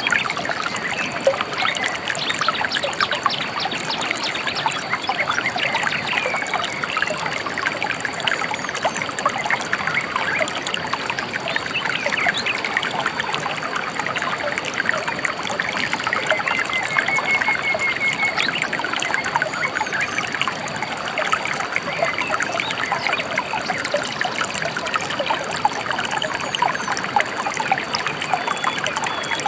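A shallow river trickling and splashing steadily. A bird gives a short trill about halfway through, with a few faint chirps elsewhere.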